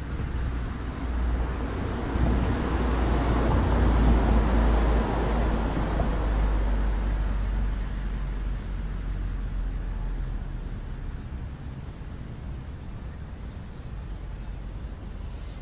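A passing car: its road and engine noise swells to a peak about four seconds in and fades away over the next several seconds. Faint, short, high bird chirps repeat through the second half.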